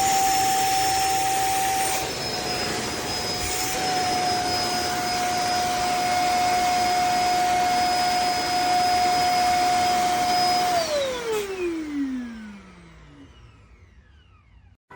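Cordless dual-motor electric spin mop running with a steady whine and a rushing noise. About eleven seconds in it is switched off, and the whine falls in pitch and fades as the motors spin down.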